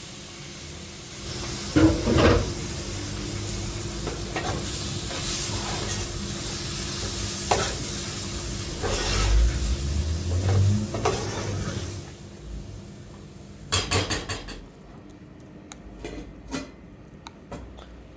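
Food sizzling in a pan, a steady hiss with occasional knocks and scrapes of a utensil, which stops about twelve seconds in and gives way to a few quick clatters of pots and dishes.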